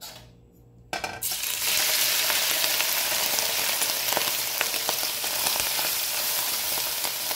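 Flaked smoked trout dropped into hot oil in a metal pot: a loud sizzle starts suddenly about a second in and runs on steadily while a metal spoon stirs it, with light clicks of the spoon against the pot.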